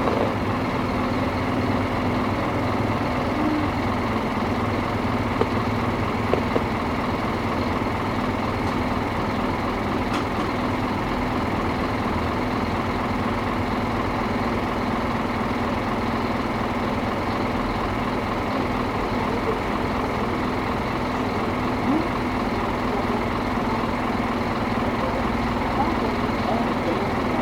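Scania K310IA bus engine running steadily with an even low drone, no revving.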